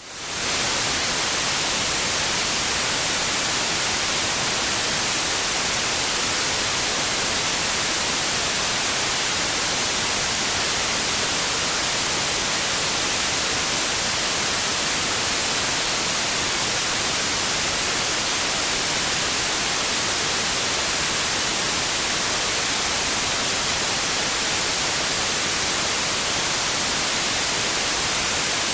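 Steady white noise, an even hiss across all pitches with no tones or rhythm, fading in over the first moment after a brief gap.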